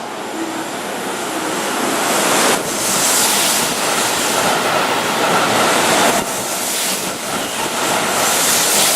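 Keihan electric train running close by: a loud, steady rush of wheel and air noise that swells about two and a half seconds in, with a faint steady whine over it.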